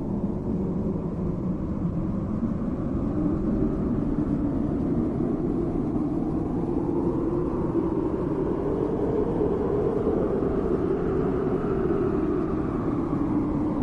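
A steady low droning soundscape with no clear melody, its pitch drifting slowly up and down.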